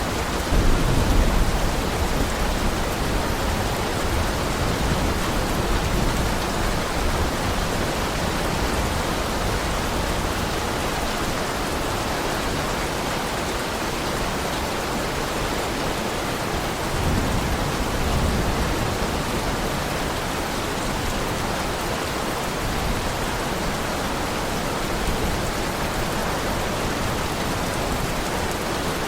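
Heavy rain falling in a steady hiss, with low rumbles of thunder swelling about a second in and again about two-thirds of the way through.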